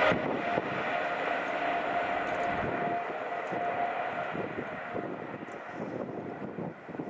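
Express train receding down the main line after passing at speed: a broad rumble with a steady whine that fades away over several seconds, the whine dying out about halfway through.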